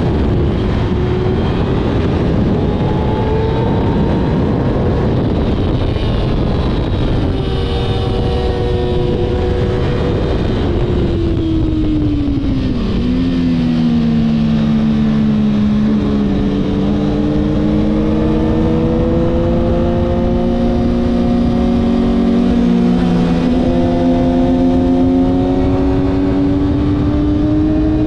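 Kawasaki ZX6R sport bike's inline-four engine running at speed under a steady rush of wind noise. Its pitch drops between about ten and thirteen seconds in as the throttle comes off, then climbs steadily as the bike accelerates.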